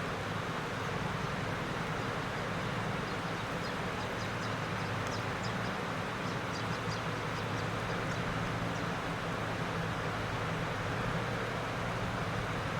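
Class M6 diesel-electric locomotive running with a steady, unbroken low drone. Faint short high chirps come through in the middle.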